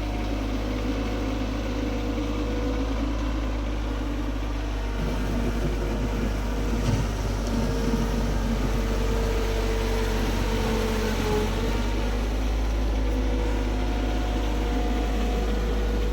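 Tractor engine running steadily, its pitch wavering slightly around the middle.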